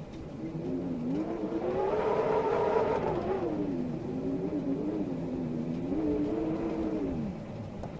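Howling wind: a whistling moan over a rushing hiss that slowly rises and falls in pitch, climbing highest a few seconds in and sliding down near the end.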